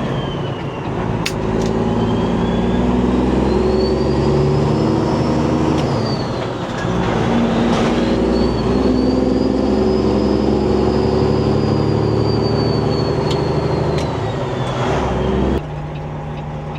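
Semi-truck diesel engine pulling under load, its pitch stepping with each gear shift, with a turbo whine rising and falling above it. Near the end the engine drops suddenly to a lower, steady run as the throttle comes off.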